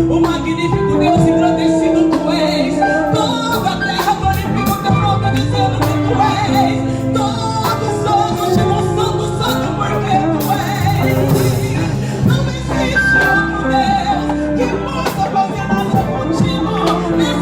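Live Christian worship music: singing voices over a band, with a steady bass line and regular drum and cymbal hits.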